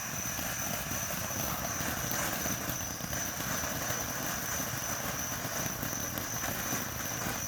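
A firework burning: a steady rushing hiss with crackle that starts suddenly.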